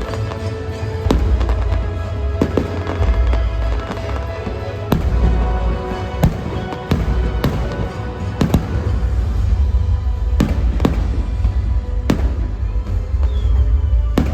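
Fireworks shells bursting in a string of sharp bangs, about one every second or two, over loud music with heavy bass.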